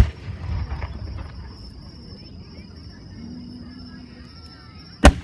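Two aerial firework shells bursting, a sharp loud bang at the start and another about five seconds in, each followed by a low rolling rumble. Crickets chirp steadily underneath.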